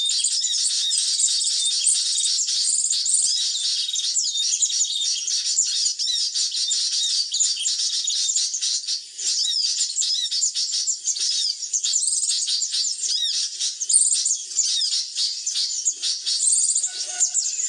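Dense, continuous high-pitched chirping and twittering of sunbirds, the calls used to lure them in, made up of rapid short trills and quick chirps that overlap without a break.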